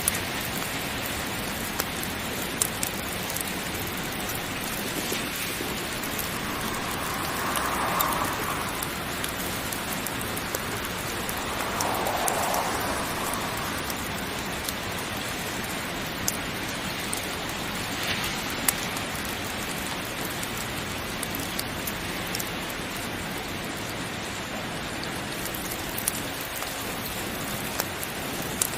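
Steady heavy rain, an even hiss, with scattered sharp clicks throughout and two brief swells in the middle.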